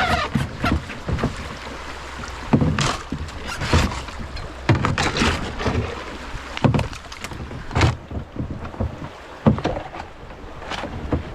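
Kayak being paddled down a shallow creek: irregular splashes and knocks from the paddle strokes, about one a second, over the running water.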